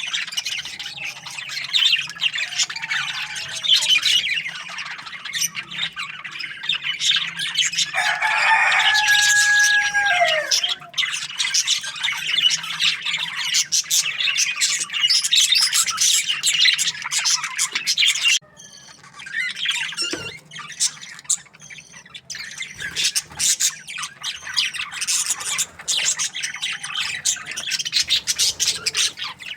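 A flock of budgerigars chirping and chattering continuously in many short, high, overlapping notes. About eight seconds in, one longer held call sounds over the chatter for a second or two and ends with a falling glide.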